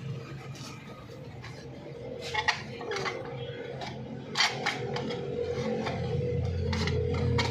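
A handful of sharp metallic taps and clinks at irregular intervals, from tools working on car-body sheet metal, over a steady low hum. Two come close together about two and a half seconds in, and others fall around four and a half seconds and near the end.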